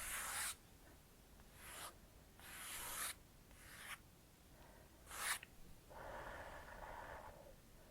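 Hands rubbing and stroking skin: a series of soft, short hissy swishes, then a duller, longer rub near the end.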